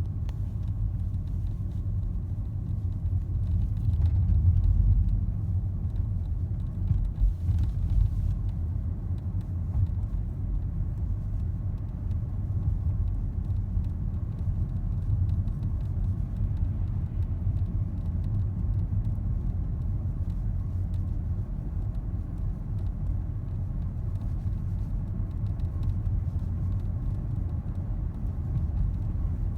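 Steady low road rumble inside the cabin of a moving 2016 Nissan Altima, with faint intermittent clicking rattles from the instrument cluster (combination meter). A few heavier bumps come about four to five and eight seconds in.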